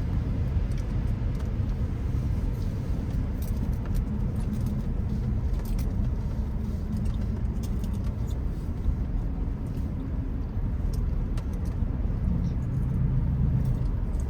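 Car driving along a road: a steady low rumble of tyre and engine noise, with faint scattered ticks and rattles.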